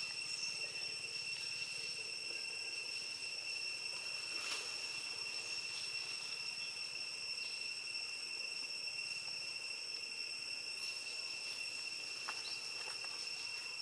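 Insects chirring steadily in one high, unbroken tone, with a couple of faint clicks about four and twelve seconds in.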